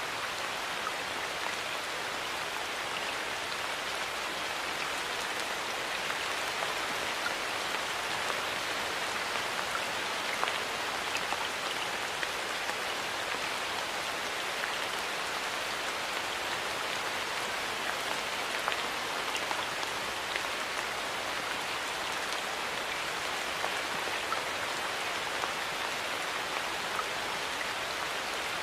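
Steady rain falling on a hard surface, a continuous hiss with scattered individual drop ticks.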